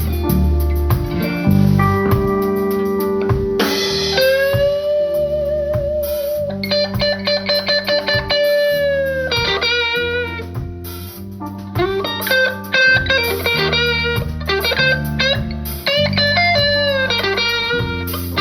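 Live blues band playing, led by an electric guitar solo of bent notes, with one long held note with vibrato about four seconds in, over a bass line and band backing.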